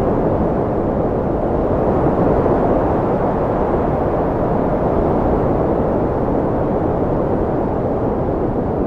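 Strong wind blowing in a steady low rush, swelling a little about two seconds in and easing slightly near the end.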